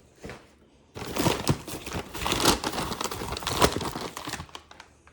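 A bag of sandblasting media crinkling and rustling as it is handled, starting about a second in and dying away near the end.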